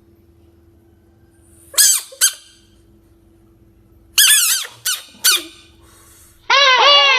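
Bullfrog screaming: short, loud, wailing cries that rise and fall in pitch. There are two about two seconds in and a quick cluster around four to five seconds, then an unbroken run of cries near the end.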